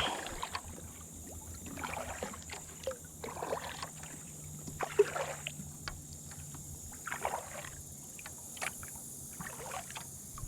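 Water lapping and small splashes around a fishing kayak, with a few light sharp knocks.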